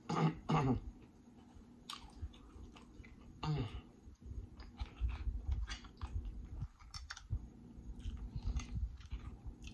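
Close-miked chewing of seafood boil food, with many wet mouth clicks and smacks. There are a couple of short voiced sounds near the start and another about three and a half seconds in.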